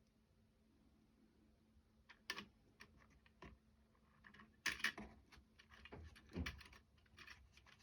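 Scattered light clicks and taps of small wooden clock parts being handled, with a cluster of clicks near the middle and a duller knock shortly after.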